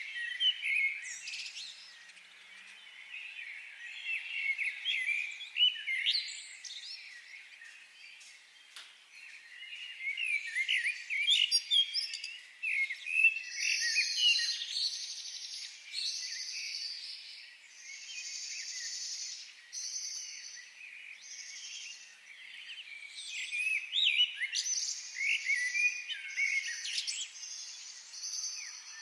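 Several wild birds chirping and singing in forest, with many short sliding notes overlapping. About halfway through, a higher buzzy sound starts repeating about once a second alongside them.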